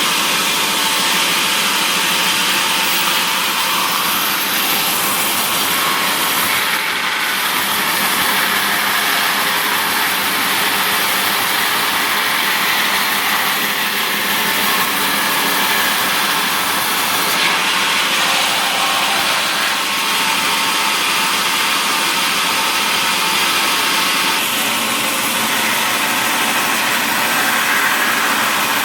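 Sawmill machinery running steadily, giving a loud, even mechanical noise, with a saw working through mahogany logs.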